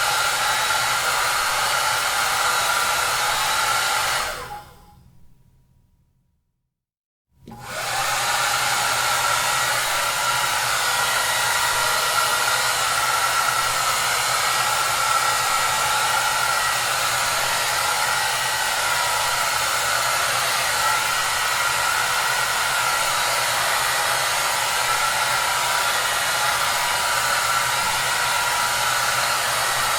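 Hair dryer running with a steady rushing noise and a faint whine. About four seconds in it dies away to silence for a second or two, then comes back quickly and runs steady again.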